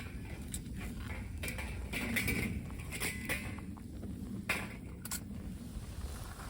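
A few scattered light clicks and knocks of small objects being handled, over a steady low rumble.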